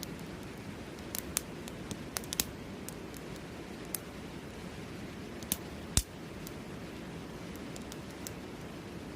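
Wood fire crackling, with irregular sharp pops and snaps, the loudest about six seconds in, over a steady rush of flowing river water.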